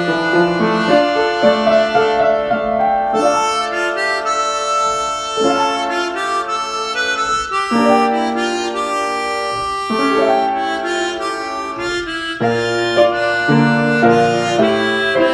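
Harmonica playing a melody with chords, several notes sounding together and changing every second or so.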